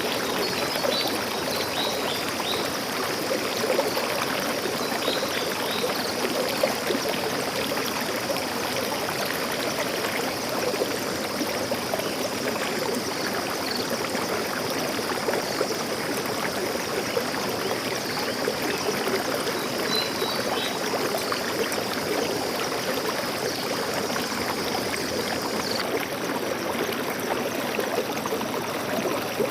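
Steady rush of a flowing forest stream, with a few faint high bird chirps near the start and about two-thirds through.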